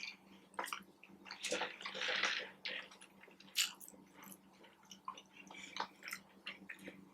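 A person chewing food with wet, squishy mouth sounds and scattered small clicks, with a louder short hiss about two seconds in.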